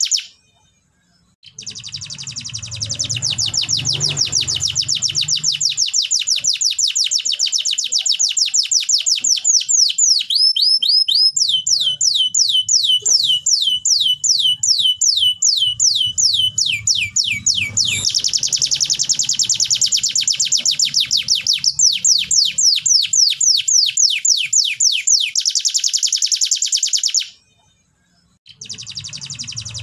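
Domestic canary singing a long song of rolling trills, each a fast run of repeated high notes. Midway the song shifts into slower, lower sweeping notes. It breaks off briefly about a second in and again near the end.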